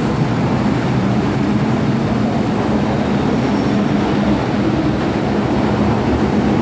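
MTR Tsuen Wan Line M-Train electric metro train running, a steady, even rumble with a faint low hum under it.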